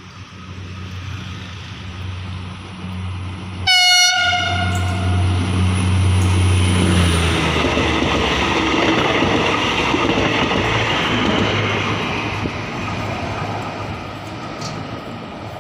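Philippine National Railways diesel multiple unit sounds one short horn blast about four seconds in as it approaches, over a steady low engine drone. The trainset then passes close by, and the rumble of its wheels on the rails swells loud and slowly fades.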